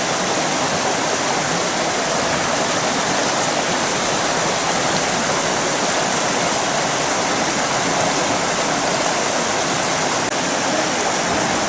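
A fast-flowing mountain river rushing steadily.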